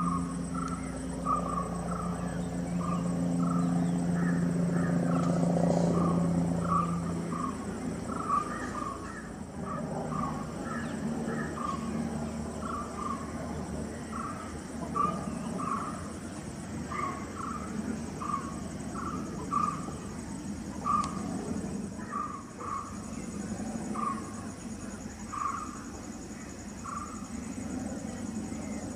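A distant helicopter drones low overhead, loudest in the first several seconds and then fading away. Throughout, a bird calls over and over, a short note about once a second.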